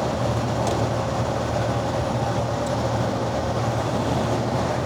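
Steady drone of a truck on the road heard from inside the cab: low engine hum and road noise with a steady mid-pitched tone.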